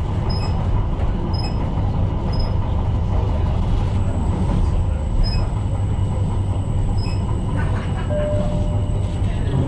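Tyne & Wear Metro train running along the track: a steady low rumble of wheels and motors, with short high-pitched beeps repeating about once a second for a few seconds.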